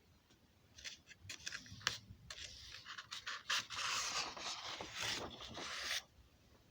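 Scraping and rustling handling noise: a run of sharp clicks, then a steady rough scrape that cuts off suddenly about six seconds in.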